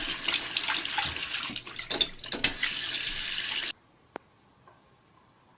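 Water running steadily, then stopping suddenly a little under four seconds in, followed by a single sharp click.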